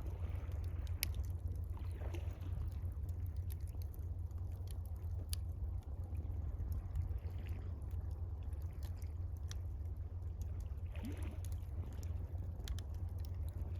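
Campfire crackling, with scattered sharp pops, over gentle lapping water and a steady low rumble.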